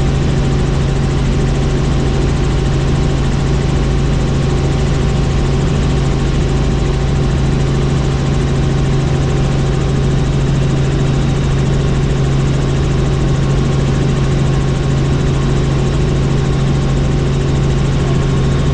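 Helicopter running with a loud, unchanging drone: a strong low hum under an even wash of turbine and rotor noise.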